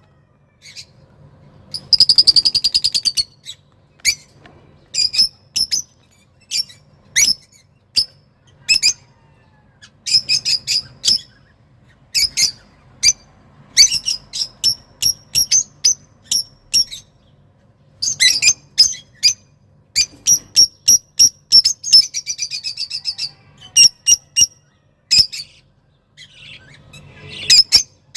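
A songbird singing excitedly: runs of sharp, high chirps broken by fast buzzy trills, in phrases with short pauses between them.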